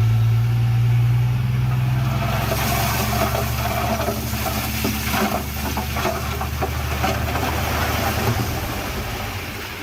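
Heavy diesel engine of earthmoving machinery running close by, a strong low engine note with a rougher, clattering noise laid over it from about two seconds in, easing off near the end.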